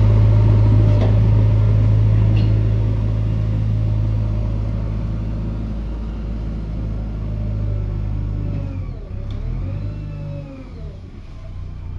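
JCB 3DX backhoe loader's diesel engine running with a steady deep hum that grows quieter in the second half. Near the end a wavering higher tone rises and falls over the engine.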